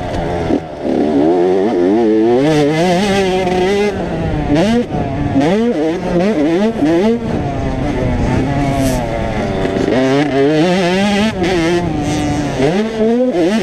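Several 85cc two-stroke motocross bikes running on the track, their engines overlapping, each rising in pitch and dropping back again and again.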